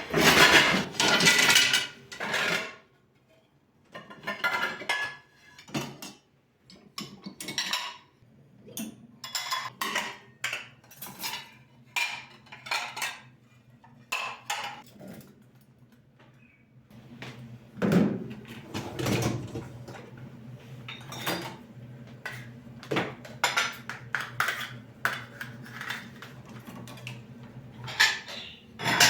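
Dishes and cutlery clattering in an irregular run of sharp knocks and clinks as they are handled. From a bit over halfway through, a low steady hum runs underneath.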